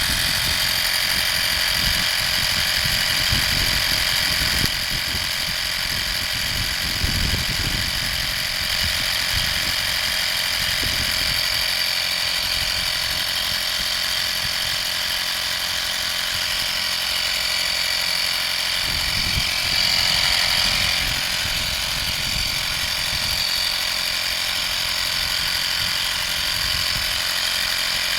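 Vaper 55203 12-volt portable air compressor running steadily with a high whine. It drops slightly in level about five seconds in and rises briefly around twenty seconds.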